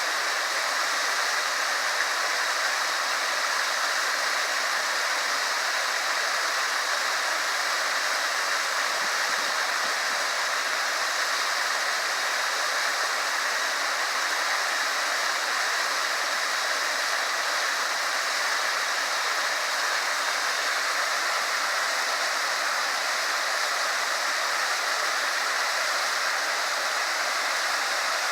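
Small waterfall: water pouring and rushing steadily, with no change in level.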